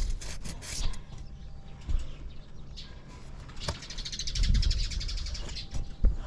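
Around a Honda Motra 50 cc motorbike during a start check: irregular knocks and clicks over a low rumble, with a buzzing rattle lasting about a second and a half around four seconds in.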